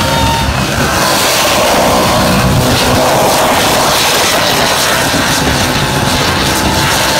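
Supercharged, methanol-fuelled Chev V8 in a Holden VF ute held at high revs in a burnout, the rear tyres spinning on the pad. The engine runs loud and steady throughout.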